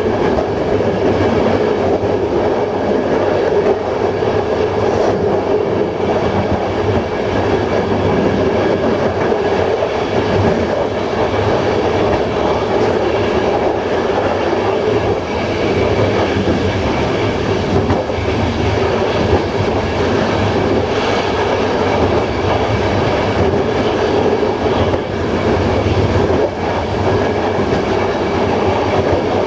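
Passenger train running steadily along the track, heard from inside the train: a continuous rumble of wheels on rail with a steady hum.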